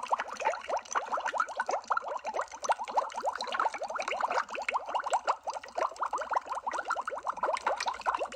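Underwater bubbles rising in a steady stream: a dense run of quick bubbling blips, each a short upward chirp in pitch, many a second without let-up.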